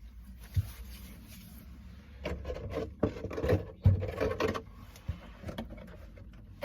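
Handling noises from a small radio-controlled car and its plastic parts: a stretch of rubbing and scraping with a few light knocks.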